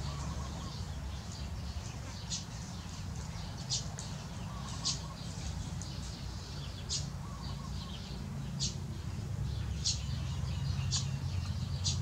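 Small bird giving short, sharp, high chirps, about eight of them, spaced irregularly a second or two apart, over a steady low rumble.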